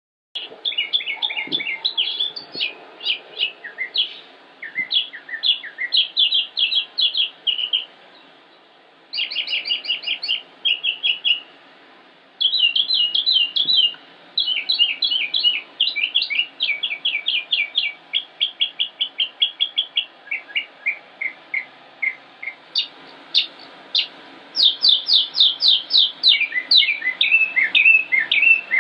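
A songbird singing: fast runs of short, sharp, high notes delivered in phrases with brief pauses between them, over a faint background hiss.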